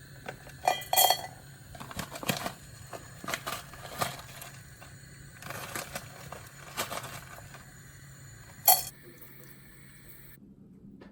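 Hard household objects being handled: a series of clinks and light knocks, with a ringing clink about a second in and a sharper knock near the end, over a faint steady hum. The sound cuts off abruptly shortly before the end.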